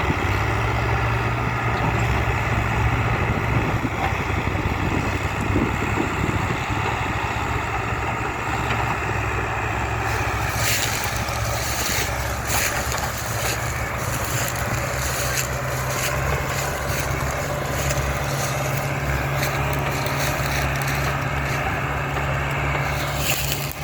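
Mahindra Arjun 555 DI tractor's diesel engine running steadily under load, pulling a loaded sugarcane trolley. From about halfway through, repeated knocks and rattles join the engine.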